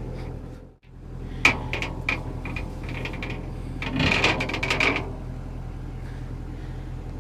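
Metal knocks and a rattling scrape as a band sawmill blade is worked off its wheels, over a steady machine hum.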